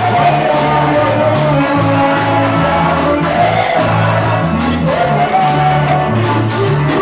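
Worship song: voices singing over a band, with a bass line moving in held notes.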